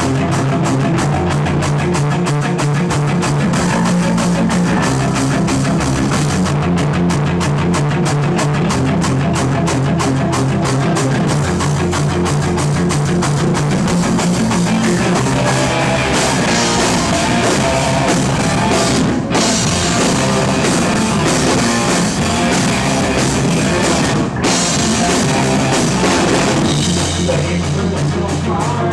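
A rock band playing live and loud: distorted guitars, bass and a drum kit hitting densely, cutting out briefly twice in the second half.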